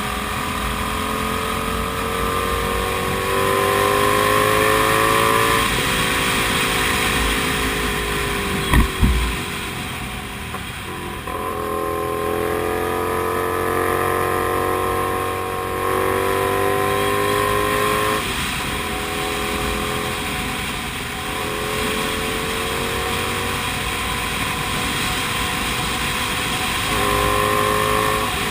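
Comet GTR250 motorcycle engine under way, its pitch rising as it pulls and dropping back at several points, as with gear changes or throttle lifts. There is a brief low thump about nine seconds in.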